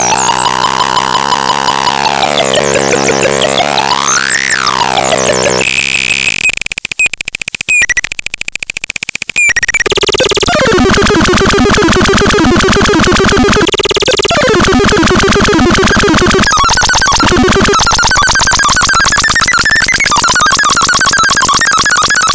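Loud, harsh synthesized electronic sounds. Sweeping tones glide down and then up in pitch, break into a choppy, sputtering stretch with brief dropouts about seven seconds in, then turn into fast warbling tones that step upward in pitch.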